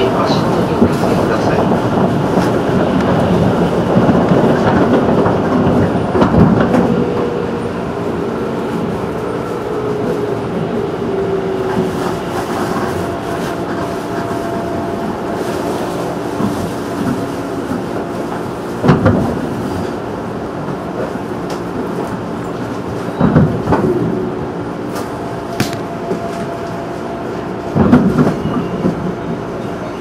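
211 series electric train heard from inside the car: a steady rumble of wheels on rail, with a motor tone that falls gently in the first third as the train slows. Three sharp wheel clacks over rail joints come in the second half, the last near the end.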